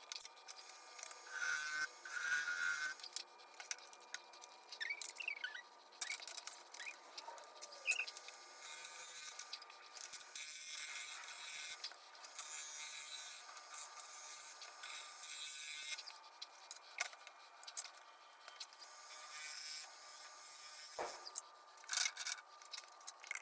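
Intermittent scraping and rubbing on a cottonwood vase spinning on a wood lathe, with one sharp knock near the end.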